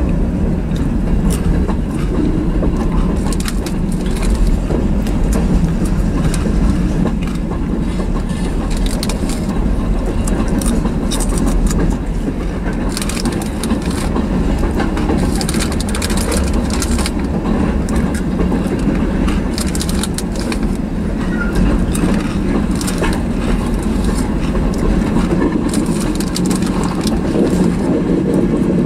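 Freight train's covered hopper cars and tank cars rolling past: a loud, steady rumble of steel wheels on rail, with frequent clicks and clatter.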